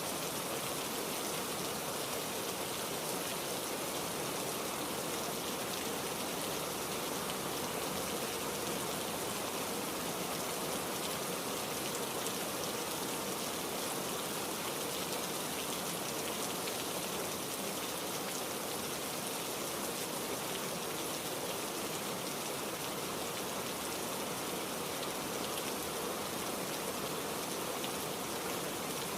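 Heavy rain falling steadily, with no thunder.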